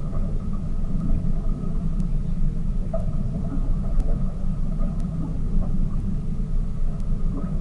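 Tour boat's engine running steadily underway, a continuous low rumble.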